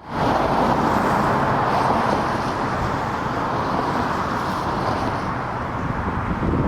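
Steady road traffic noise, a continuous rush with no distinct passes or tones.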